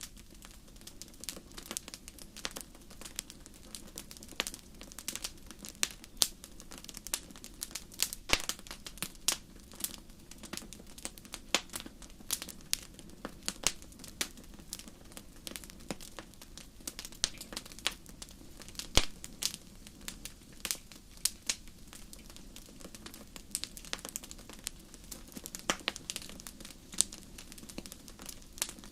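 Wood fire burning in a fireplace, crackling and popping irregularly over a low steady hiss.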